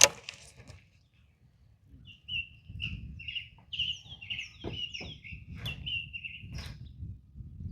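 A sharp knock right at the start, then a songbird singing a fast run of short chirping notes for about five seconds over a low rumble.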